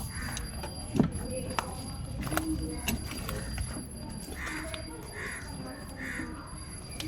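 Sharp metallic clicks and clinks of hand tools on the motorcycle engine as a nut is fitted and tightened, the loudest about a second in. A few short calls sound in the background in the second half.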